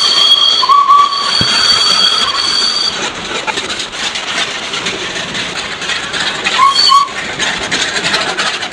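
Darjeeling Himalayan Railway steam-hauled toy train running, heard from a carriage window: a high, steady squeal from the wheels on a curve for the first three seconds or so, then the clatter and rattle of the carriages over the rails, with a short squeal again near the end.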